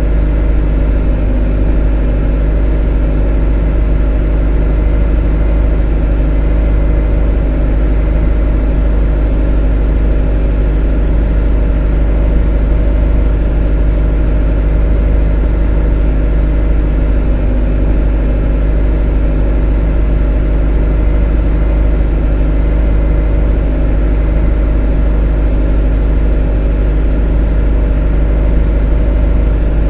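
A motor running steadily at constant speed: an unbroken drone with a deep low rumble and a stack of steady tones above it.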